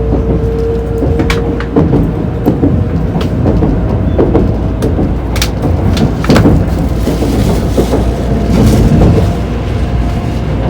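Tokaido Shinkansen train running, heard from inside a passenger car: a steady low rumble with scattered clicks and knocks, and a faint steady hum.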